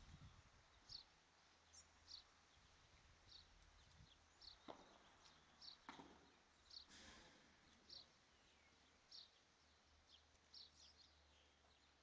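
A small bird chirping, short high chirps repeating about once a second, faint over quiet outdoor air. Two dull knocks about five and six seconds in, padel ball strikes on the rackets.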